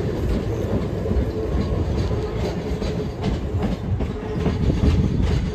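Southeastern electric multiple unit running past along the platform, with a steady wheel rumble and a faint motor hum. Wheels click over rail joints, more often in the second half.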